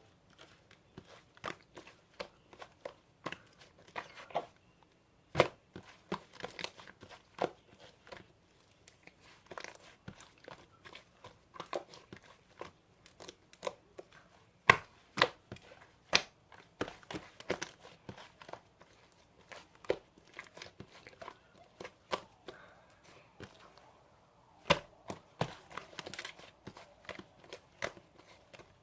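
Slime being squished and poked by hand, giving irregular sharp clicks and pops, some much louder than others.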